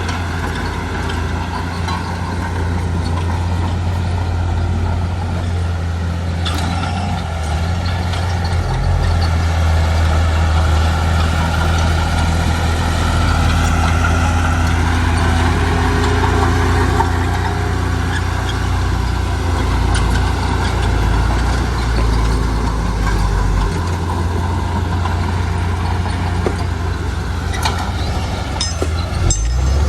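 Heavy diesel engine of construction machinery running continuously with a strong low note that shifts in pitch as the load changes; a few short clicks or knocks near the end.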